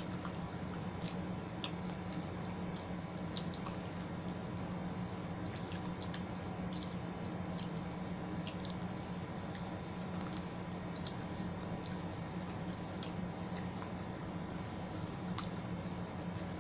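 Close-up eating sounds: wet, squishy chewing with scattered small clicks from the mouth and food, over a steady low hum.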